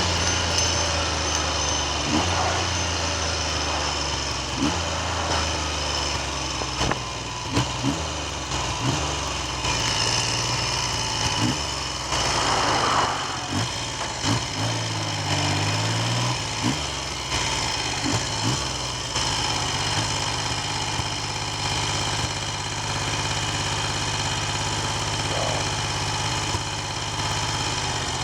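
Triumph Trident three-cylinder motorcycle engine running at low revs, with a brief rise and fall in revs about halfway through. Wind noise on the microphone and scattered short knocks run alongside it.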